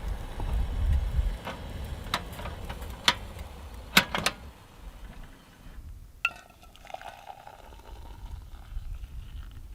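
Clinks and knocks of cookware and utensils being handled: a handful of sharp clicks, the loudest pair about four seconds in.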